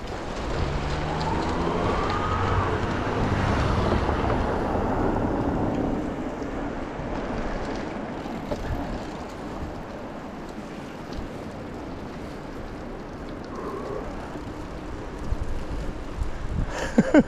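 A motor vehicle passing close by: its engine swells over the first few seconds and fades after about six, leaving a steady background noise.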